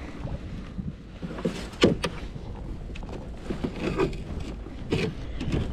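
Irregular knocks and clunks of gear being handled aboard a fishing kayak, about five over the few seconds, over a low rumble of wind and water.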